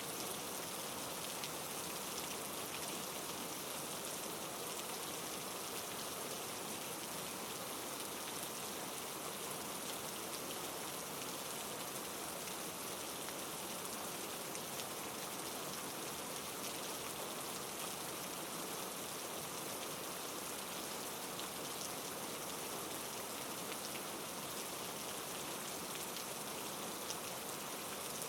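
Heavy rain falling, a steady even hiss laced with many small drop ticks.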